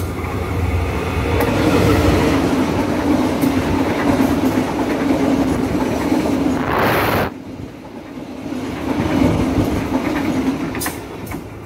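Passenger train running through a station at speed, its wheels clattering over the rail joints. A brief loud rush about seven seconds in, after which the noise drops and then builds again.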